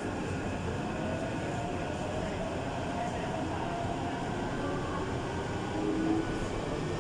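Taipei Metro Tamsui–Xinyi line train running through the underground tunnel between stations: a steady rumble of rail and running noise, with faint whining tones that drift in pitch.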